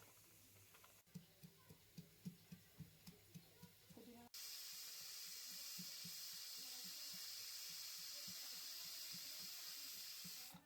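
Light regular knocks at about four a second; after a cut about four seconds in, the steady hiss of masala frying in a pan joins them.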